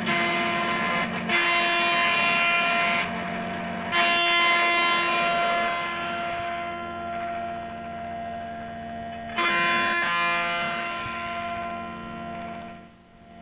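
Squier Mini Strat electric guitar played through an octave fuzz pedal on its fuzz setting: heavily distorted chords struck three times and left ringing and sustaining, fading away near the end. The pedal, repaired of a short, is passing signal and working.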